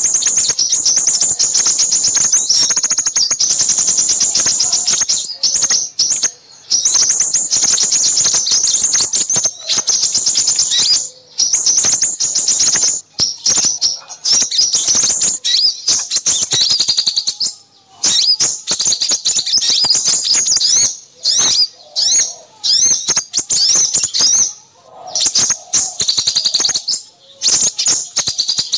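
Small songbirds chattering in dense, rapid high-pitched chirps and trills with only brief pauses: a bird-lure recording of noisy small birds used to call in crimson sunbirds.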